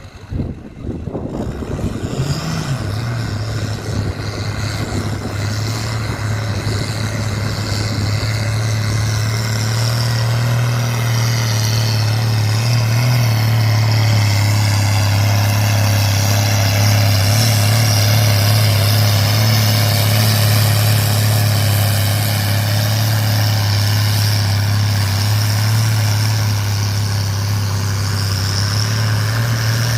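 Six-cylinder Fordson Major tractor engine working hard under load in a tractor pull. A sharp burst at the start gives way to a steady, strong engine note that builds gradually over the first ten seconds and then holds.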